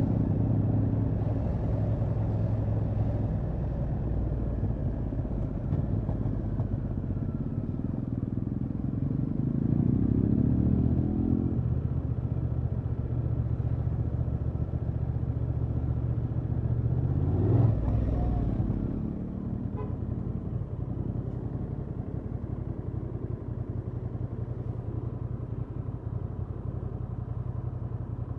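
Honda XL750 Transalp's parallel-twin engine on its stock exhaust, running at low revs. The revs pick up for a couple of seconds about ten seconds in, there is a short louder sound a little past halfway, and then the engine settles to a steadier, quieter idle.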